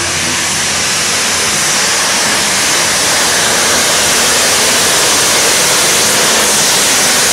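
Modified pulling-tractor engines at full throttle during a pass down the track: a dense, loud roar that builds over the first few seconds and then holds steady.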